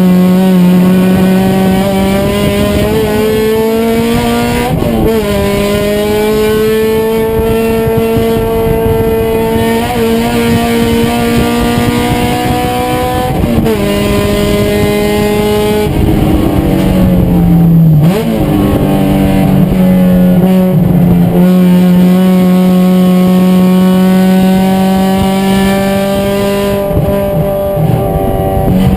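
Race car engine running hard at high revs, its pitch climbing slowly and dipping sharply a few times as the driver shifts or lifts for corners.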